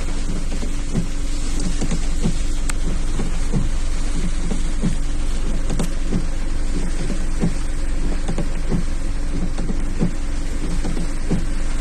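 Heavy rain pattering steadily on a car's roof and windscreen, heard from inside the car, with a low steady hum of the car running underneath.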